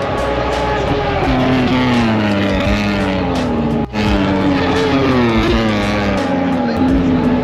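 Racing motorcycle engines running at high revs, their pitch falling over a second or two each time, several times over.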